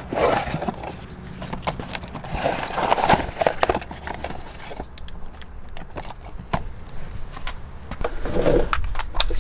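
Hand work on parts and tools in a garage: a run of sharp clicks, clinks and knocks with short bursts of rustling, over a steady low hum.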